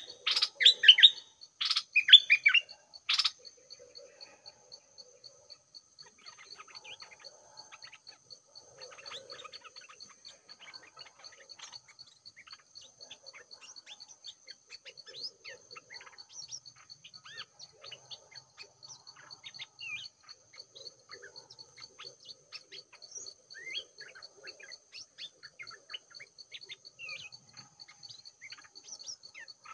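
Birds calling: loud, rapid calls in quick strokes for the first three seconds, then only faint scattered chirps. A steady high insect drone runs underneath.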